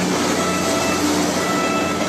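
A PNR 203-series electric multiple unit commuter train running past on the rails as its last coach goes by, with background music over it.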